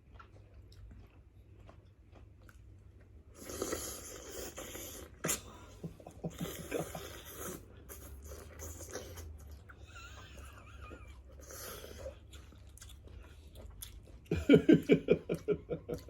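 People chewing and handling food at the table, with scattered clicks and rustling. Near the end comes a rapid run of short pulses, the loudest sound.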